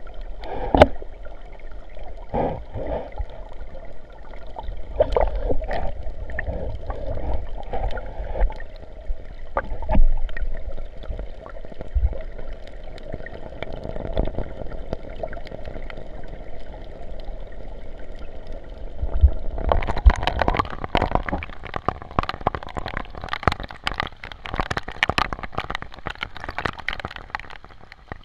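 Sea water gurgling and sloshing, heard muffled with the microphone under the water. About twenty seconds in the sound opens up into brighter splashing with many sharp drops as the microphone comes above the surface.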